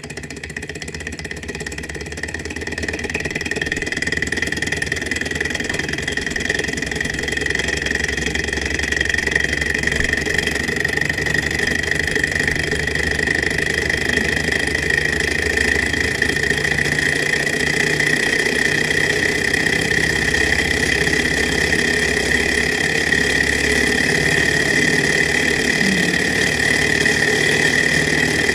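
Small alcohol-fired Stirling hot air engine running and driving a small generator: a steady mechanical whir with a high, even whine. It comes up to speed and grows louder over the first several seconds, then runs steadily.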